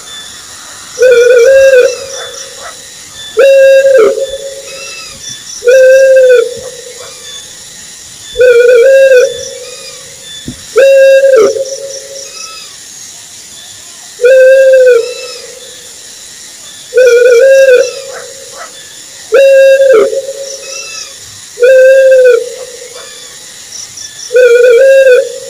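An owl calling over and over, about ten times. Each call is a loud, drawn-out hoot that rises and falls, repeated about every two and a half seconds, over faint high-pitched chirping.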